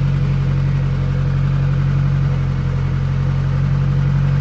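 Car engine running steadily, a constant low hum with no revving, heard from inside the cabin.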